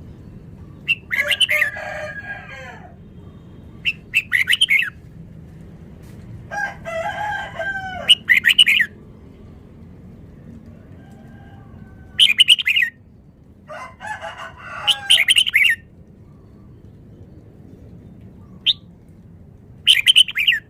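Red-whiskered bulbul singing short, rapid phrases of quick notes again and again, a few seconds apart. Three longer, lower calls from another bird come between the phrases.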